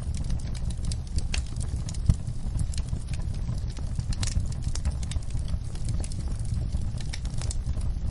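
Fireplace fire crackling: irregular sharp pops and snaps over a steady low rumble of the flames, with one louder pop about two seconds in.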